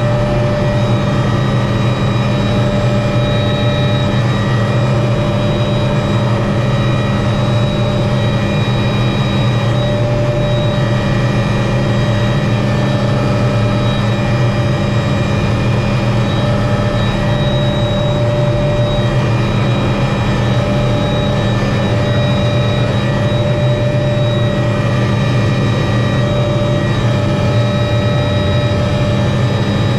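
Helicopter engine and rotor running steadily: a low drone with several steady whining tones above it.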